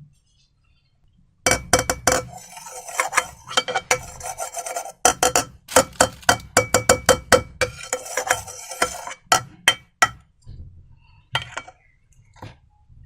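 Slime being worked in a container: a fast run of wet clicks and clinks against the vessel starts suddenly about a second and a half in and thins out to a few single clicks near the end.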